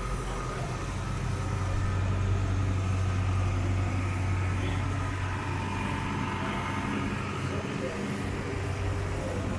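A steady low engine drone, with faint voices in the background.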